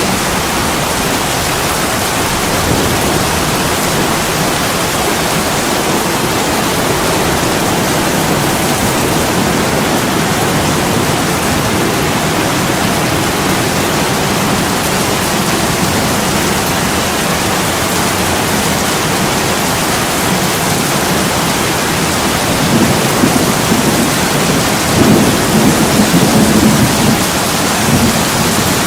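Heavy rain pouring steadily on a window, with a low rumble of thunder swelling near the end.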